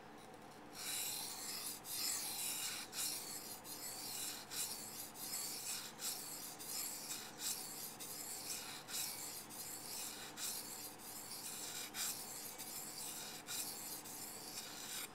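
Steel knife blade being stroked back and forth over a wet waterstone, a steady gritty scraping in an even rhythm of strokes. It starts about a second in and stops just before the end.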